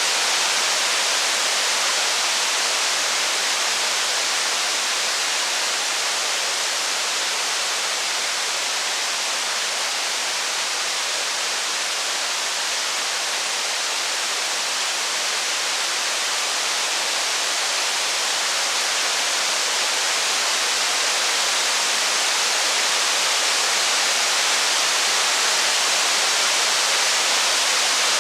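Steady rain falling, an even unbroken hiss with no thunder or fire crackle standing out.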